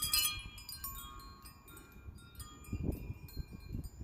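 Wind chimes ringing in strong wind: a cluster of strikes at the start, then their tones fading away. Wind buffets the microphone with low rumbles near the end.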